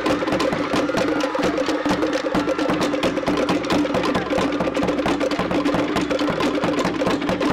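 Fast percussion music for a dance performance, driven by rapid wooden knocks over a steady low tone. It stops abruptly near the end.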